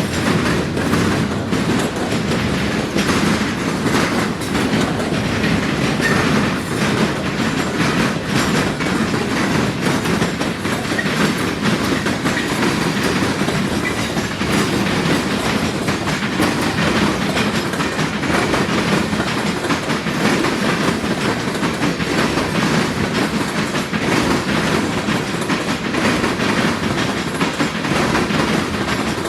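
Freight cars of a long train rolling steadily past, their wheels clattering continuously over a railroad diamond crossing.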